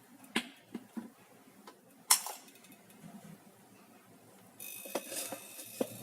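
Clinks and knocks of kitchen utensils against an electric kettle as oil is put in, the loudest a sharp clink about 2 seconds in. A steady hiss starts suddenly near the end.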